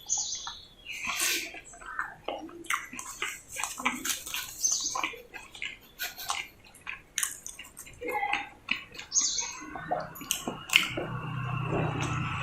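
Close-miked eating of roti with potato sabzi: irregular wet mouth smacks, clicks and chewing. About ten seconds in, a steady low hum comes in and grows louder.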